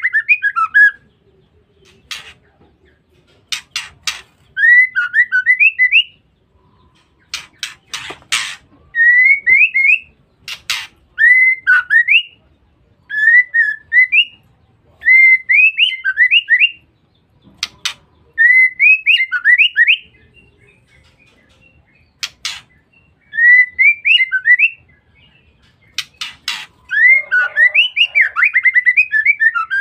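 Female white-rumped shama calling: short phrases of three to five quick rising notes, repeated about every two seconds, mixed with sharp clicks. Near the end comes a denser, faster burst of notes. This is the female's chattering call (ngeriwik) that keepers play as a lure.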